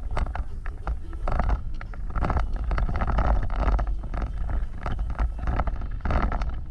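Vehicle driving over rough off-road terrain: a steady low rumble with frequent rattles, knocks and creaks from the vehicle.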